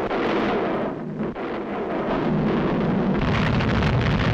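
Animated-film sound effects of a volcano erupting: a continuous, steady noisy rumble with no distinct blasts.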